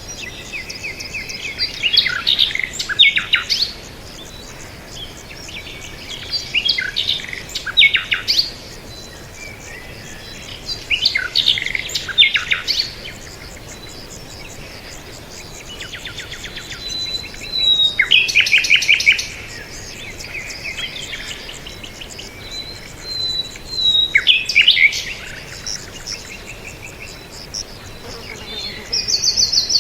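Songbird singing: a phrase of rapid chirps and down-slurred notes lasting one to two seconds, repeated about every five or six seconds.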